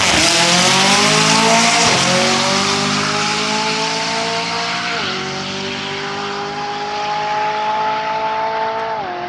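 A car's engine accelerating hard down a drag strip at full throttle. The engine note climbs steadily and drops sharply at each upshift, about three shifts in all, and grows gradually fainter as the car pulls away.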